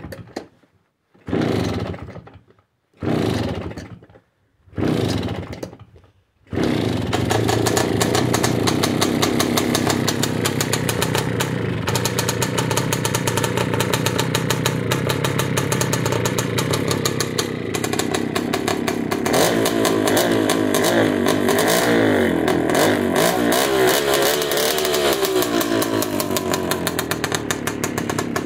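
Motorynka moped's Dezamet 017 two-stroke single-cylinder engine being cold-started: four short bursts as it is cranked over and fires briefly, then it catches about six seconds in and runs steadily. In the last third it is revved up and down several times.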